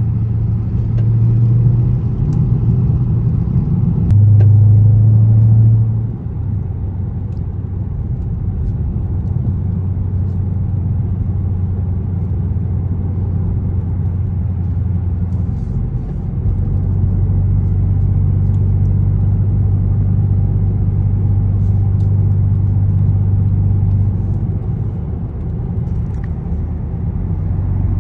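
Dodge Charger 392's 6.4-litre HEMI V8 running while driving, a steady low drone. It is louder for the first six seconds, eases off about six seconds in, and swells again a little past halfway before settling.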